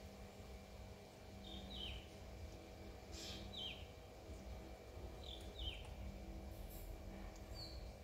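Faint short bird chirps, each falling in pitch, mostly in quick pairs about every two seconds, over a steady low hum.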